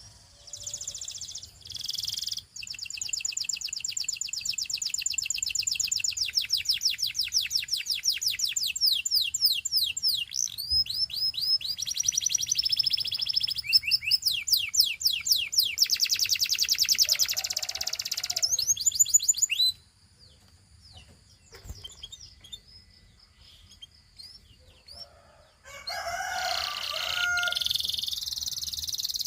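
Gloster canary singing: long trills of rapidly repeated high notes, each trill at its own speed and pitch. The song breaks off about two-thirds of the way through, leaving a few seconds of faint chirps, then starts again near the end.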